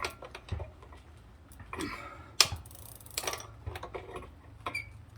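Irregular metallic clicks, knocks and short scrapes of a wrench working a stuck pedal out of a bicycle crank arm, with one sharp knock about halfway through and a brief ringing ping near the end.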